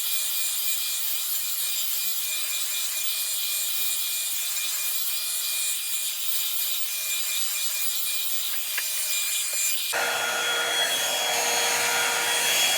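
Hair dryer running steadily on a wig, a constant airy rush with a faint high whine. About ten seconds in, the sound turns fuller and lower.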